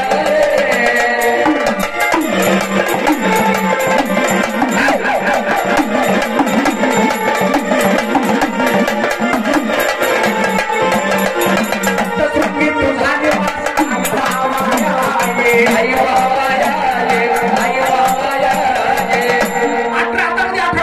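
Gondhal folk music: sambal drums played in a fast, dense rhythm over a held melody line.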